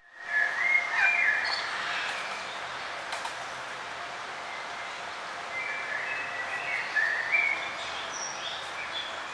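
Small songbirds chirping in quick clusters of short high notes, about a second in and again around six to seven seconds in, over a steady outdoor hiss. The sound drops out for an instant at the very start.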